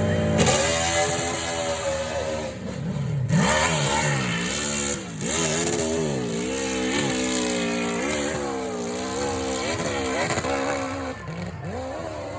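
Hillclimb motorcycle engine revving hard on a run up the slope, its pitch climbing and dropping repeatedly as the throttle is worked. It sounds like a sport-bike engine. It fades toward the end.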